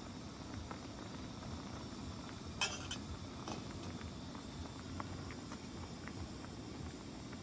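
Light clicks and clinks of eating utensils against dishes, with one sharper clink about two and a half seconds in, over a steady low rumble.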